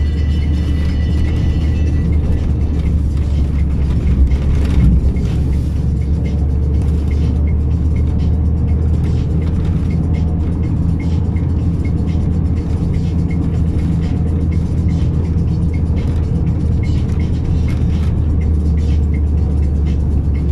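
Truck engine running steadily, heard from inside the cab as an even, deep drone.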